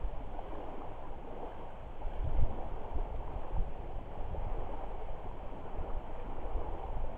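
Driftwood campfire burning with faint crackles, over a steady rush of lake water lapping and low wind buffeting on the microphone, the strongest gust about two seconds in.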